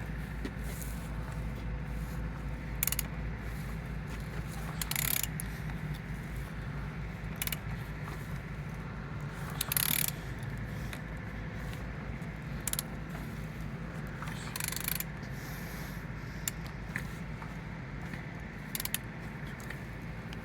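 Vauxhall/Opel A13DTE 1.3 CDTi diesel engine being turned over by hand with a wrench: mechanical clicking and ratcheting with an occasional short scrape. It turns freely, with compression on all cylinders.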